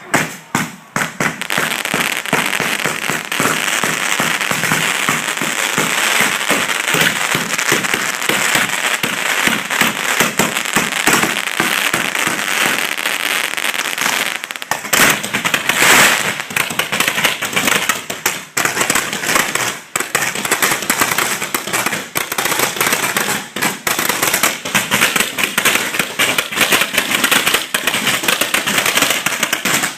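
A dense barrage of aerial fireworks at close range: a rapid, unbroken stream of bangs and crackle that starts suddenly and is loudest in a cluster about halfway through.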